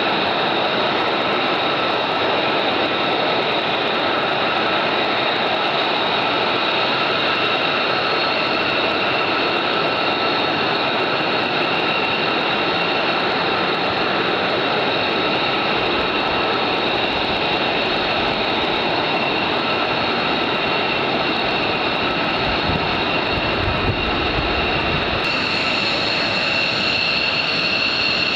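Military jet engines running at high power during takeoff: a steady roar with several high whining tones over it. More low rumble comes in during the second half, and the whine shifts a little higher near the end.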